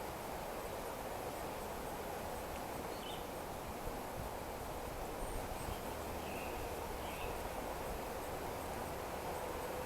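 Steady background hiss of outdoor ambience, with a few faint, brief bird chirps scattered through it.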